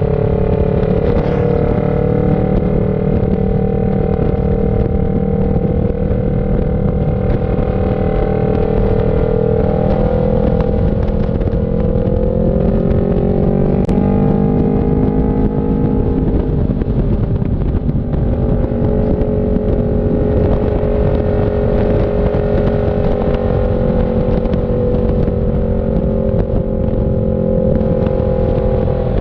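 CF Moto NK400's two-cylinder engine running at steady revs on the move. Around the middle its pitch climbs gently for a few seconds, then falls back and holds steady again.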